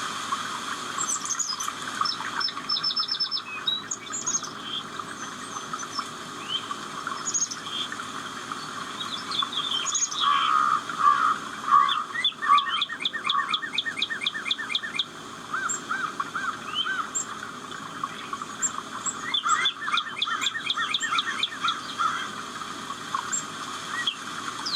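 Several birds chirping and singing together, with two runs of fast repeated trilled notes, one about halfway through and one near the end.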